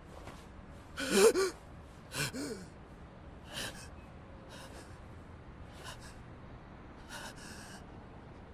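A person gasping: a sharp voiced gasp about a second in, another just after two seconds, then fainter ragged breaths roughly once a second.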